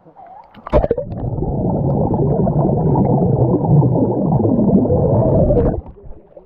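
Splash, then muffled rushing and gurgling water as heard with the microphone under water, cutting off suddenly near the end.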